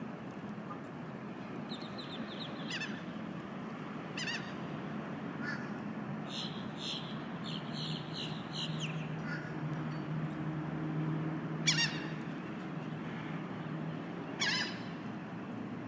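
Gulls calling: a handful of short, sharp cries spread through, the loudest about twelve seconds in, and a quick run of short high notes around the middle, over a steady low background hum.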